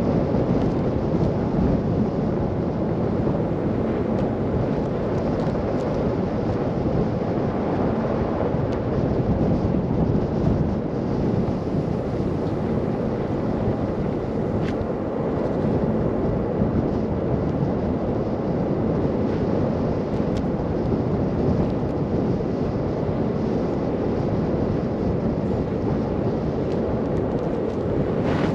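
Steady low rumble of a car driving through a snow blizzard, with wind buffeting the microphone.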